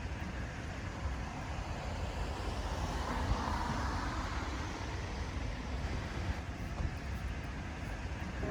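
Steady road noise from a vehicle or passing traffic, with a low rumble, growing a little louder about three seconds in.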